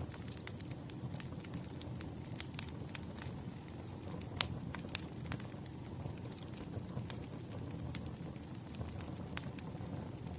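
Burning firewood crackling: irregular sharp pops and snaps over a steady low rumble of flames, with one louder pop a little before the midpoint.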